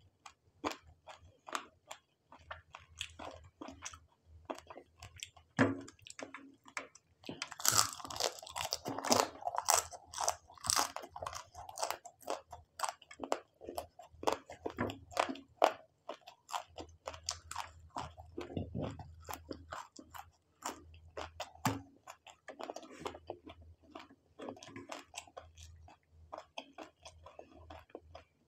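Close-miked chewing and crunching of fried prawns and noodles eaten by hand: a steady run of wet mouth clicks and crunches, loudest and densest from about eight to eleven seconds in.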